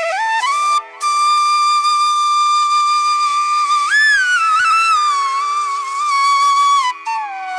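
Background music: a flute plays a slow Indian classical melody in Raag Pahadi over a steady drone. It holds one long note, bends up briefly about halfway through, then slides down near the end.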